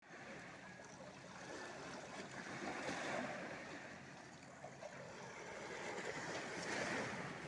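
Sea waves washing, the noise swelling twice.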